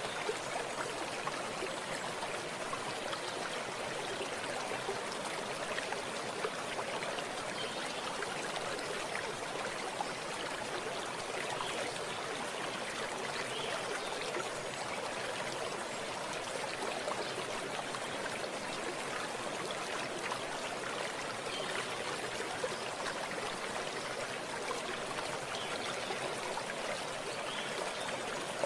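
Small stream running steadily, with a continuous babbling trickle of water over stones.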